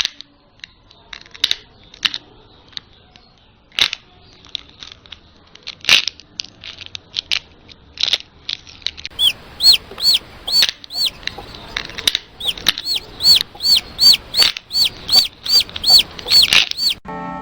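Newly hatched chick peeping: short high peeps, scattered through the first half, then a steady run of about two to three peeps a second from about nine seconds in.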